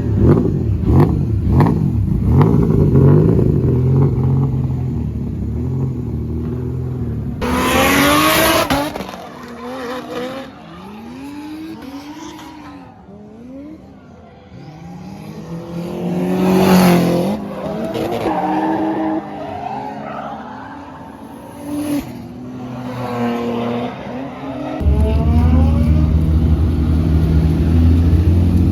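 Drift cars on track, engines revving up and down and tyres screeching as they slide past. The loudest passes come about 8 and 17 seconds in. A steady low engine sound fills the start and comes back near the end.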